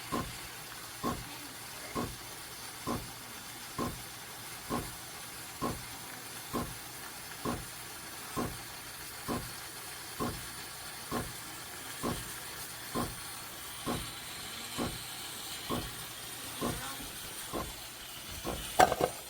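Breville Barista Touch Impress steam wand automatically frothing milk in a stainless steel jug: a steady hiss with a regular pulse a little more than once a second. Just before the end the sound gets louder and busier.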